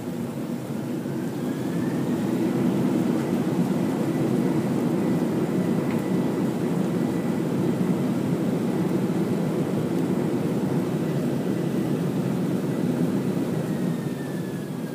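Boeing 747-400 jet engines heard from inside the upper-deck cabin, spooling up into reverse thrust on the landing rollout: a whine rises over the first couple of seconds as a loud, steady roar builds, then the whine falls and the roar dies away near the end as the engines come back to idle.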